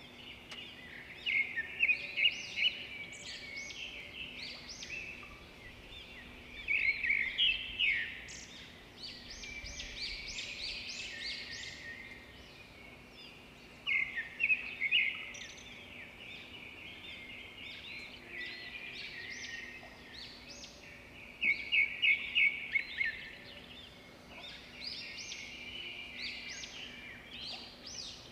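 Birds chirping and twittering, with louder clusters of rapid chirps every several seconds.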